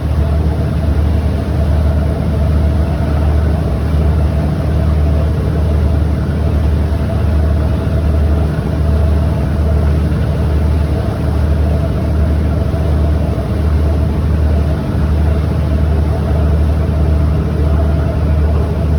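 A steady low engine drone with a gently pulsing hum, running evenly without revving up or down.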